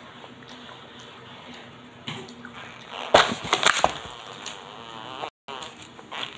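A child chewing roasted garlic peanuts close to the microphone, with crunching and mouth noises and a loud noisy burst about three seconds in.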